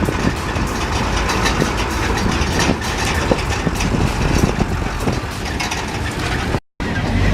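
Safari game-drive vehicle running, a low engine rumble under a noisy haze with frequent small knocks and rattles. The sound drops out briefly near the end.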